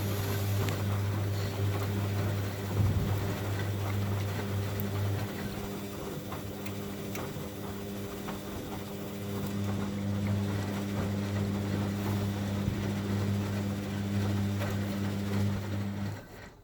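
Hoover Baby washing machine running its first rinse: a steady motor hum with water sloshing. The low hum drops away for a few seconds about a third of the way in, then resumes, and the machine stops shortly before the end.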